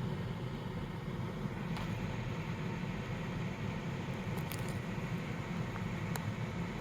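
Steady whir of a 12 V ventilation fan running, with a few faint ticks along the way.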